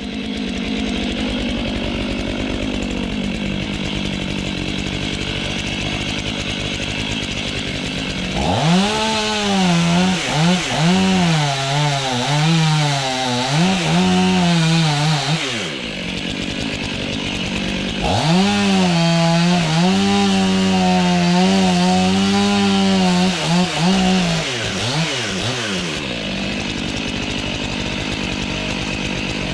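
Chainsaw idling, then run up to full throttle twice for about seven seconds each, its pitch wavering as it works through wood, dropping back to idle between and after the cuts.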